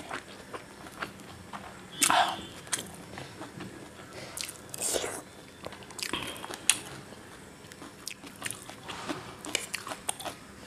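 Close-up chewing of a mouthful of chow mein noodles: wet mouth clicks and smacks throughout, with a couple of louder, brief mouth noises about two and five seconds in.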